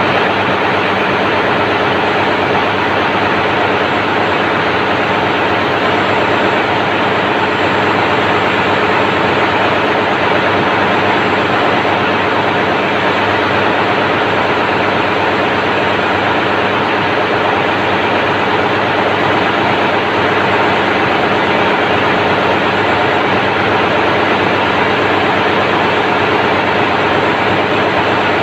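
Daihatsu 6DL-19 six-cylinder diesel auxiliary engine running steadily as the ship's generator. The sound is a loud, unchanging engine-room din with a steady hum.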